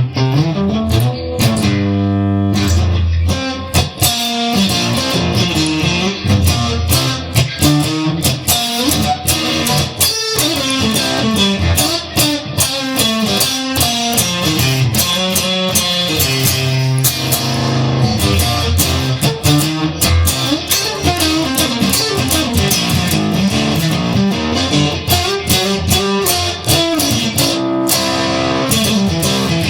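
Instrumental break in a rock song: electric guitar playing over bass guitar, with a steady beat.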